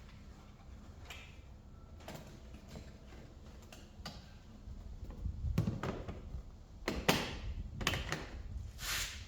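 Camping gear being handled and packed: scattered knocks and clicks, growing louder with rustling about halfway through.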